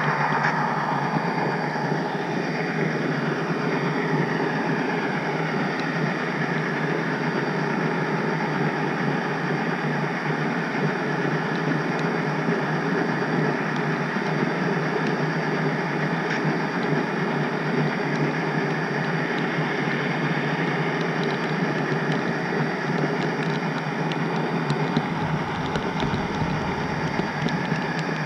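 HO scale model train running along the track, heard from the caboose: a steady mechanical running noise with slow sweeping tones that rise and fall. A low rumble joins near the end.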